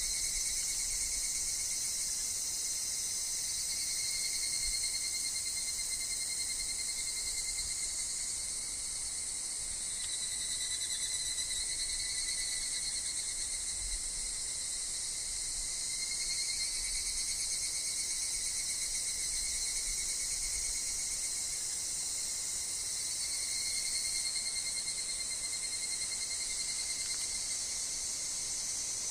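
Dense, steady chorus of insects, with higurashi (evening cicadas) among them, high-pitched and unbroken, gently swelling and ebbing.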